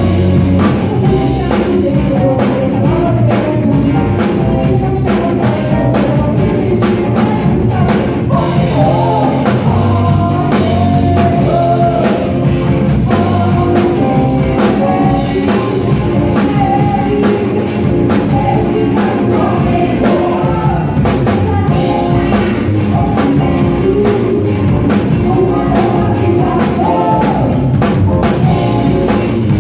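A live rock band playing a song, with a lead singer over a drum kit.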